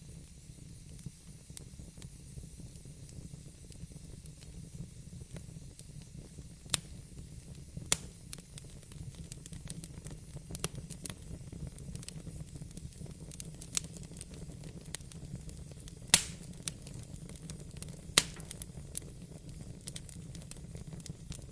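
Wood fire crackling and popping in a fireplace, with a steady low rumble of the flames under scattered sharp pops, a few of them much louder than the rest.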